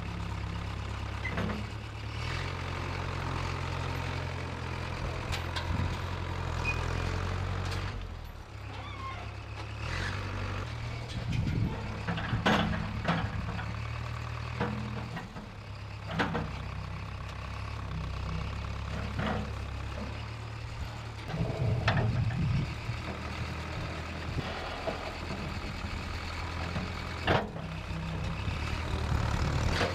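1968 Case backhoe's engine running, its speed stepping up and down as it works, with a louder surge a little past two-thirds of the way in. Sharp knocks and clunks come now and then, about half a dozen in all.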